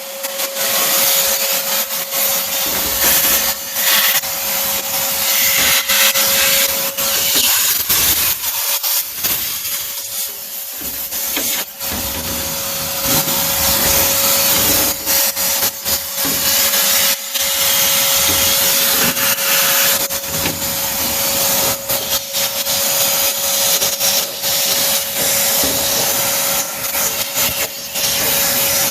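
Vacuum cleaner running, its motor holding a steady whine over loud rushing air, with uneven scraping and rubbing as the hose sucks dust out of a furnace.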